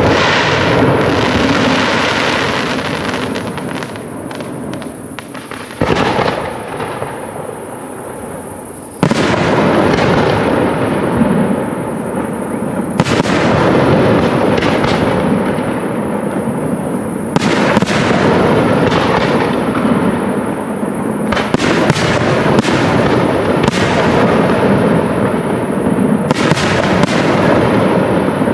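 Aerial fireworks shells bursting: about seven sharp bangs, a few seconds apart, over a continuous din from the display. The biggest jump in loudness comes about nine seconds in.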